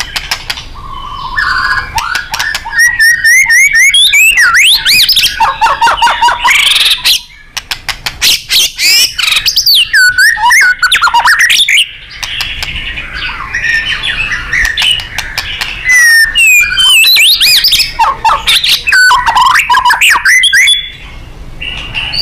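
White-rumped shama (murai batu) singing loudly and without letup: a rapid run of varied whistles, quick rising and falling sweeps, trills and sharp clicking notes. The song drops briefly about seven and twelve seconds in.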